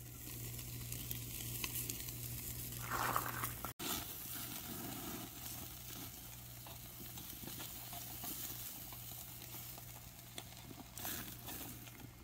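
Pork back ribs sizzling on a barbecue grill, a steady hiss that drops out for an instant about four seconds in.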